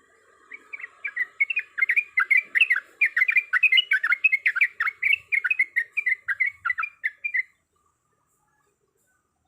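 Yellow-vented bulbul (trucukan) singing a fast, chattering run of short, sliding notes, about five or six a second, that stops abruptly after about seven seconds.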